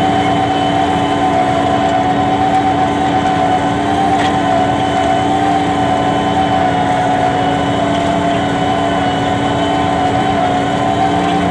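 New Holland 7610S tractor's diesel engine running steadily at a constant speed, with a steady whine.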